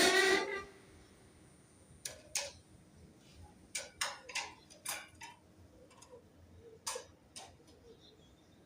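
Birds on a rooftop: a loud harsh call at the very start, then scattered short, sharp chirps and clicks at an irregular pace.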